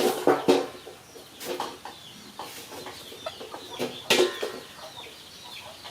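Chickens clucking, with a few sharp knocks or taps among the calls, the loudest about four seconds in.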